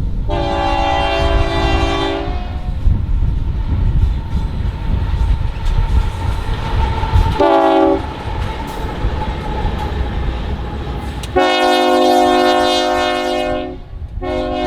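Union Pacific diesel locomotive running light past a road crossing, sounding its multi-note horn over the engine's low rumble. There are four blasts: a long one at the start, a short one about halfway, another long one near the end, and a short one just at the close.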